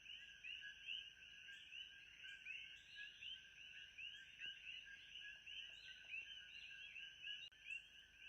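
Faint ambient chorus of many small animals calling at once: dense, overlapping high chirps, several a second, over a steady thin high tone.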